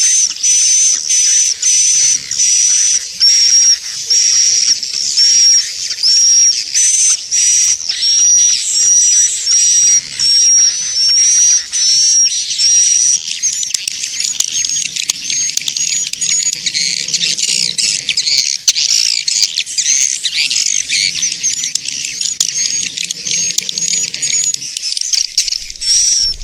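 Swiftlet lure call ('suara tarik walet'), the kind played to draw swiftlets into a nesting house: short high chirps repeated a bit more than once a second, turning about halfway through into denser, continuous twittering.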